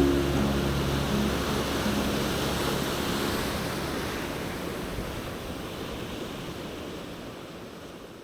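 Ocean surf washing on the beach, a steady rushing noise that fades out gradually toward the end. A few held low musical notes linger in the first couple of seconds.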